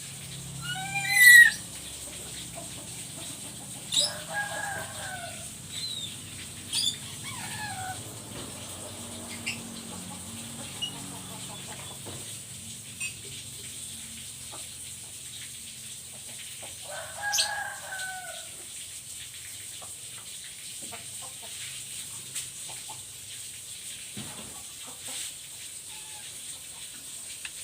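Black-capped lory calling: a few loud, short, bending squawks, the loudest about a second in, more around four to seven seconds, and another near seventeen seconds, with quiet gaps between.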